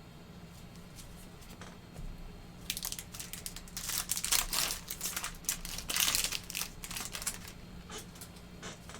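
A 2020-21 Panini Flux basketball card pack's wrapper being torn open and crinkled. Bursts of crinkling and tearing start about three seconds in and die down about seven seconds in, over a faint steady hum.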